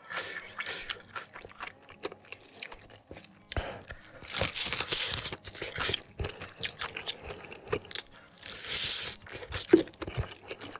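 Close-miked chewing and crunching of crispy fried chicken, with short irregular mouth clicks and two longer hissing sounds about four and nine seconds in.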